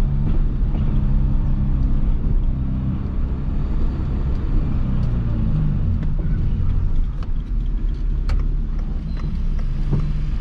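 Peugeot 206 1.4's four-cylinder engine running through an open straight-pipe exhaust with no muffler, a steady low drone while driving, its pitch shifting a little around the middle.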